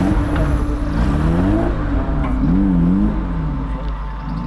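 Off-road 4x4's engine revving up and down under bursts of throttle: the pitch climbs about a second in, drops, then wavers up and down before easing off near the end.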